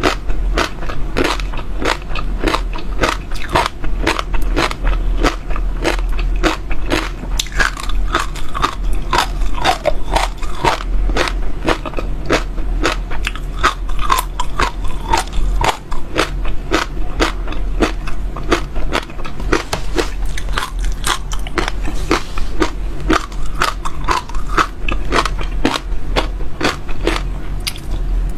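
Close-miked chewing of crunchy seeds: a fast, continuous run of small sharp cracks and crunches as they are bitten and crushed in the mouth, over a steady low hum.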